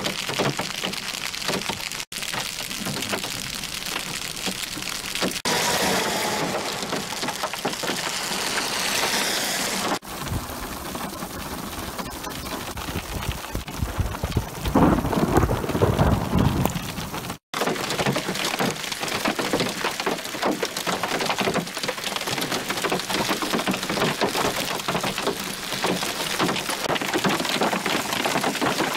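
Hail and rain pelting pavement, grass and puddles: a dense crackling patter of hailstones, broken by several abrupt cuts. A low rumble swells around the middle.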